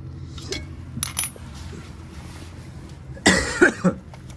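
Metal hand tools clinking while a scooter's muffler mounting is being loosened: a few sharp clicks and a brief ringing clink, then a loud short scraping burst about three seconds in.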